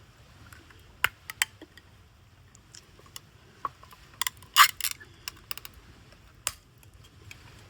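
Irregular light clicks and knocks, as of small hard objects being handled, with the loudest cluster a little past the middle.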